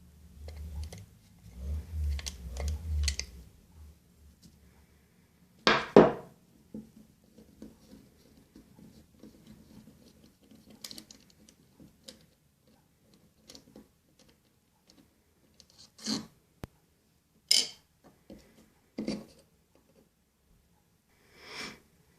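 Handling noise from taking apart a Shimano Sahara 2500FD spinning reel: scattered clicks and clacks of small metal parts and tools being picked up and set down. The loudest clack comes about six seconds in, and there is a low rumble of handling in the first few seconds.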